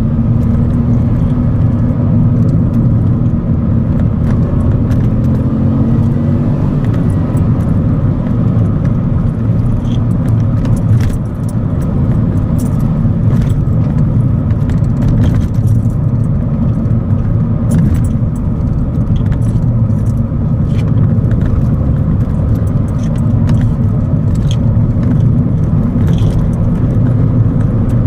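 Ford Fiesta Zetec S on the move: steady engine and tyre-road noise, with the engine note wavering a little in the first few seconds and a few faint light clicks or rattles scattered through.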